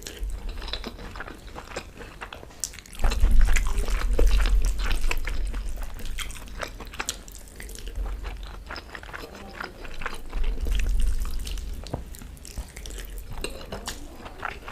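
Close-miked eating: wet chewing and mouth clicks from someone eating, with two stretches of low rumble, a few seconds in and again about ten seconds in.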